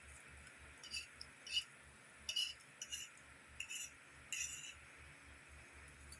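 Cutlery scraping and clinking lightly on a plate, about six short scrapes a second or so apart, over a faint steady hiss.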